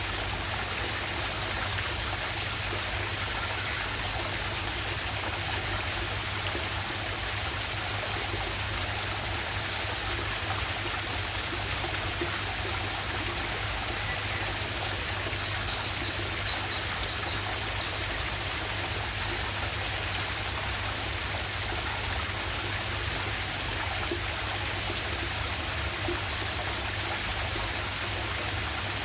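Waterfall and stream water rushing steadily, with a low rumble underneath.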